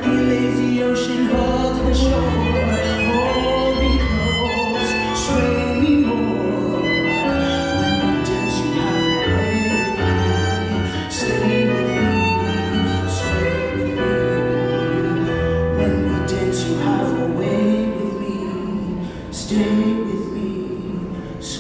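Live band music led by a violin melody over piano accompaniment, with a steady beat.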